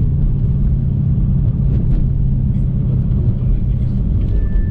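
Dodge Hellcat's supercharged V8 running at a steady cruise, a low even drone. A thin high tone starts near the end.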